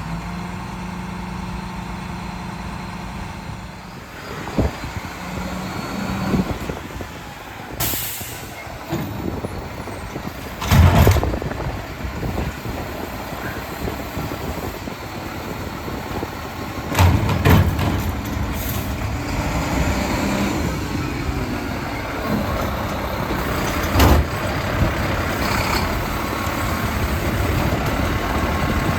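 Mack LEU garbage truck with a Bridgeport packer body working a collection stop, its diesel engine running steadily. An air-brake hiss comes about eight seconds in, and several loud bangs follow as trash is loaded and packed.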